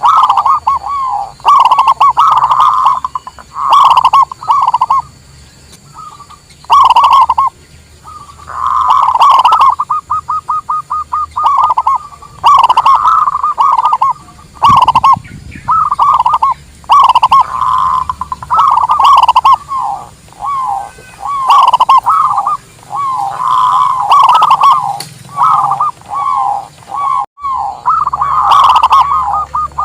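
Zebra doves (perkutut) cooing: repeated short phrases of quick staccato coos, separated by brief pauses, with a fast run of evenly spaced notes about ten seconds in.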